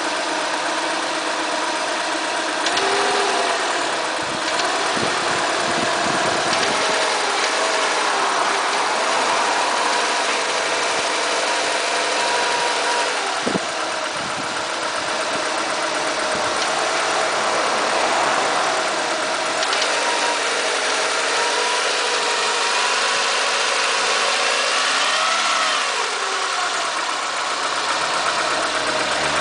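Renault Mégane II 1.6 petrol four-cylinder engine idling and revved up and back down several times, making a strange noise on acceleration.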